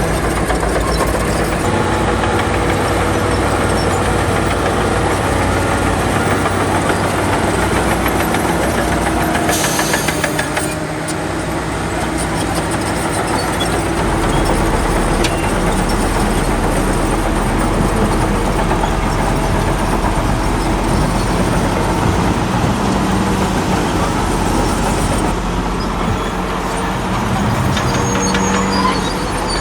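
Heavy diesel earthmoving machinery running steadily, its engine note shifting with load about halfway through and again near the end, with a brief burst of noise about ten seconds in.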